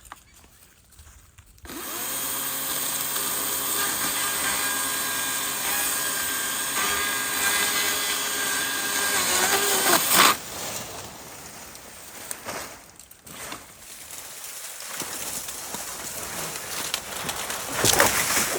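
A power saw runs at full speed for about eight seconds, cutting through a palm, its pitch sagging slightly just before it stops. Quieter, irregular rustling and cracking of cut brush follow, with a louder burst near the end.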